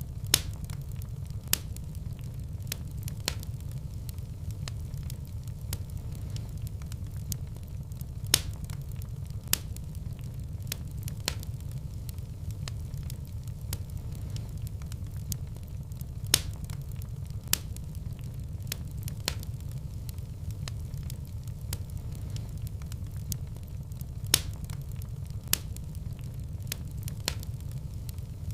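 Wood fire in a fireplace crackling: sharp pops and snaps every second or so over a steady low rumble of the flames, with a few louder pops standing out.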